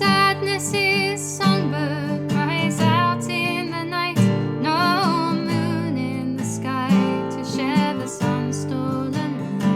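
Acoustic guitar strumming chords, with a higher melody line with vibrato over it.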